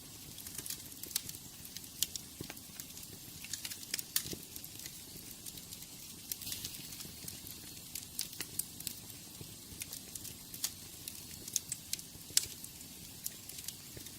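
Wood fire burning in a fireplace, crackling with frequent irregular sharp pops over a soft steady rush of flame.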